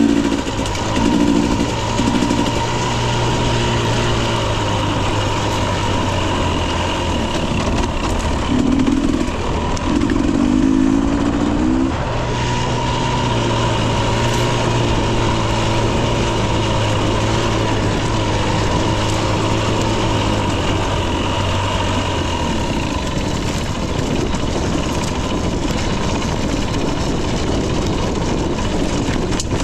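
Husqvarna TE 250i two-stroke dirt bike engine running under way on a trail ride, revving up in short bursts near the start and again about a third of the way in, then pulling at a steadier pitch.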